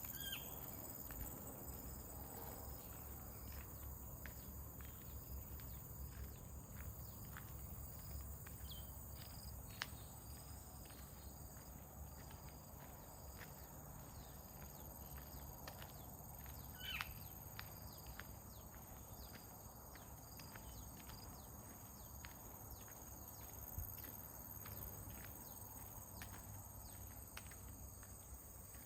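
Walker's footsteps on a path, faint and regular at about two a second, over a steady high insect chorus and a low wind rumble. Two brief chirps stand out, one at the start and one about halfway through.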